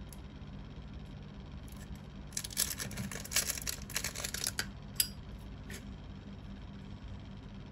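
Brass-cased Zippo lighters being handled: a flurry of small metal clicks and scrapes about two and a half seconds in, then a sharp single click about five seconds in and a lighter one soon after, over a steady low hum.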